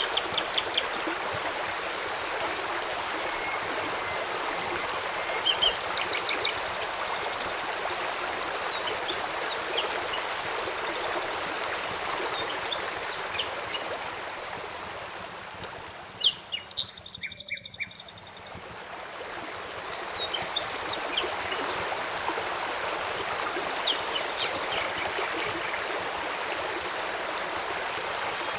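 Steady rush of flowing river water and rain, with small birds chirping and sharp crackles and pops from a campfire scattered through it. The water noise dips briefly about two-thirds of the way through, then returns.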